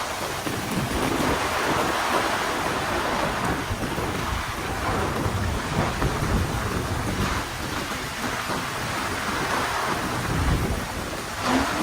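Heavy rain pouring steadily, with thunder rumbling low and rolling underneath.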